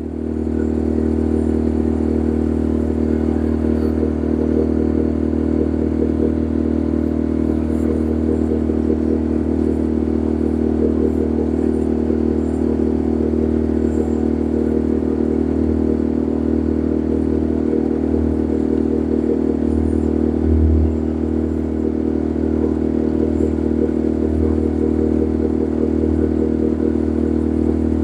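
Boat engine running steadily at cruising speed, a constant low drone with a brief swell about two-thirds of the way through.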